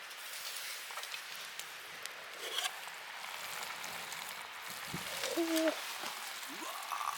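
Steady faint sizzling of food cooking in a mess tin over a campfire, with a few light clicks and one short, low, level-pitched call a little over five seconds in.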